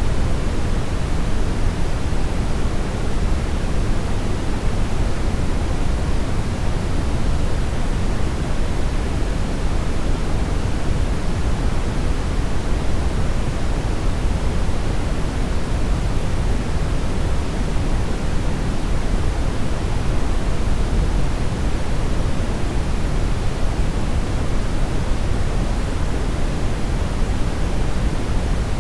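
Steady brown noise: an even, unchanging rumbling hiss, heaviest in the low end and thinning out toward the highs.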